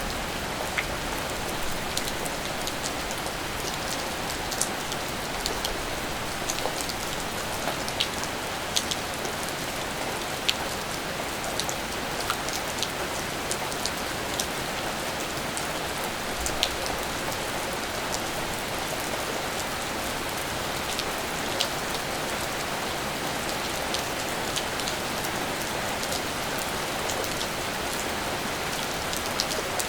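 Steady rain falling, with scattered louder drops ticking sharply on a surface close by.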